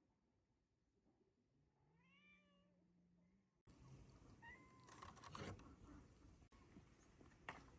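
A cat meows once, faintly, about two seconds in. Faint clattering and a few knocks follow in the second half.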